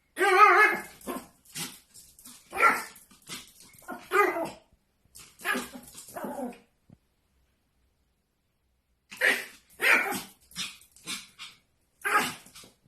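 Pomeranian barking in a run of short, high yaps, pausing for about two seconds midway before barking again.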